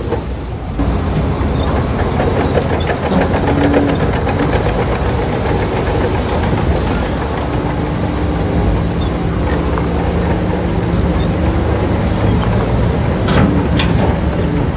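Heavy diesel earthmoving machinery running steadily under load, with a faint regular clatter and a couple of sharp metallic knocks near the end.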